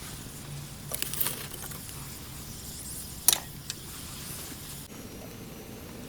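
A few sharp clicks and clinks, the loudest a little past halfway, over a steady low hum.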